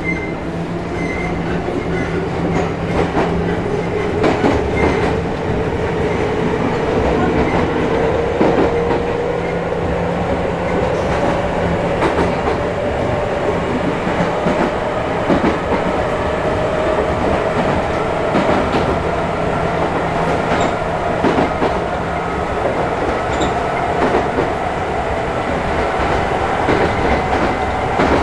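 Interior running sound of a Chichibu Railway 5000 series (ex-Toei 6000 series) resistance-control electric train gathering speed. The traction motor whine rises slowly and steadily in pitch over the rumble of the running gear, with wheels clicking over rail joints.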